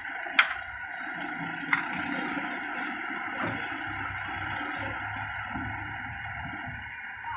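Vehicle engines running steadily, with two sharp clicks in the first two seconds.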